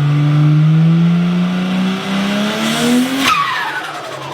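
Turbocharged car engine revving, its pitch climbing steadily, then a sudden burst of hiss about three seconds in and a whistle falling in pitch as the turbo spools down.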